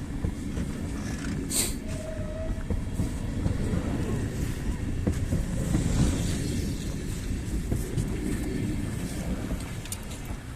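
Electric train running past the platform, a low rumble that builds to a peak about halfway through and then fades, with a sharp click early on.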